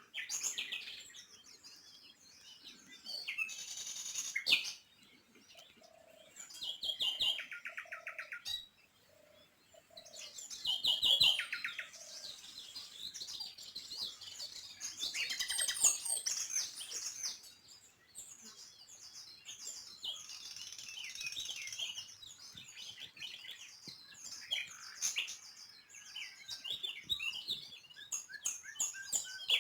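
Small songbirds chirping and singing, several calls overlapping, with quick rattling trills about seven and eleven seconds in.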